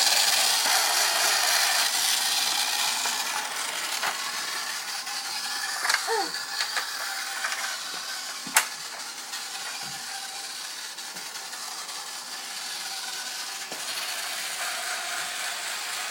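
Small battery motor and plastic gears of a Thomas TrackMaster toy bus whirring as it runs, gradually getting quieter. A few light clicks come about six seconds in, and one sharp click about eight and a half seconds in.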